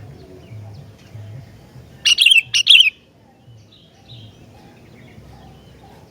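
Sooty-headed bulbul (kutilang) singing a short loud burst of two quick phrases about two seconds in, with faint chirping around it and a low hum underneath.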